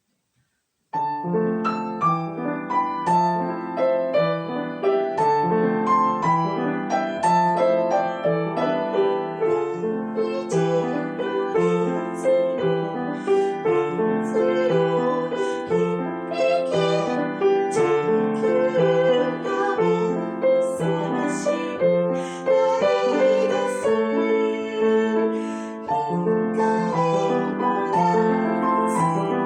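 Instrumental music led by piano, starting about a second in.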